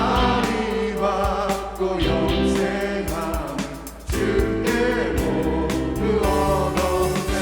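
A church praise team singing a worship song with band accompaniment: several voices over bass and drum beats.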